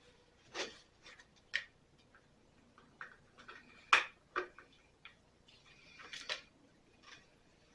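Irregular light clicks and clinks of small metal parts being handled while battery ignition wires and a spark plug are hooked up; the sharpest click comes about four seconds in.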